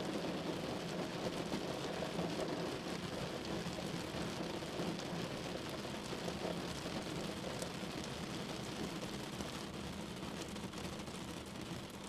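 Steady rain falling on a window, a continuous dense hiss flecked with fine drop ticks, easing slightly in loudness over the stretch.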